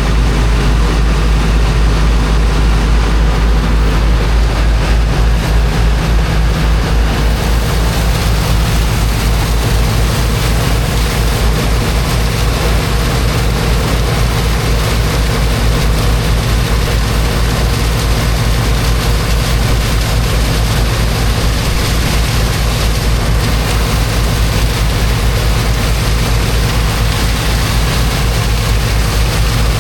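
Engine of a high-pressure water pump running steadily with a heavy, fast-pulsing low rumble, over a rushing hiss of water that grows louder about seven seconds in.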